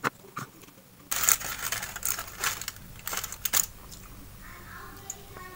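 Close-up eating sounds: wet mouth clicks and smacks while chewing, in a run of quick bursts from about a second in until about three and a half seconds.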